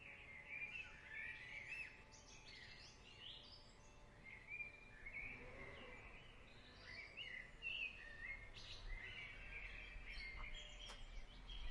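Faint birdsong: several short chirps and twittering calls scattered through, over a soft steady background hiss.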